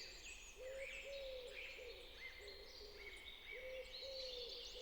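Birds calling faintly: a low hooting coo repeated every second or so, often in pairs, over the higher chirping of several smaller birds.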